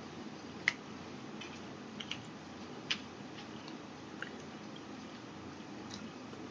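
A few faint, scattered clicks and small sticky sounds of hands working a plastic candy-kit tray and soft candy dough, over a low room hum.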